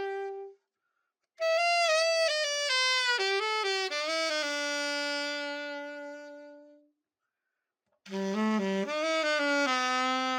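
B&S Series 1000 alto saxophone played solo after a full overhaul, in short phrases that step down to a long held low note, with pauses of about a second between phrases.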